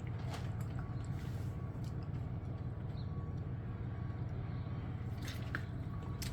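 A man drinking from a plastic water bottle: faint swallows and bottle squishes over a steady low hum.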